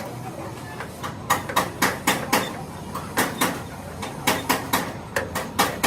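Hammer blows on metal, about a dozen sharp strikes in four quick runs of two to five with short pauses between, over a steady low rumble.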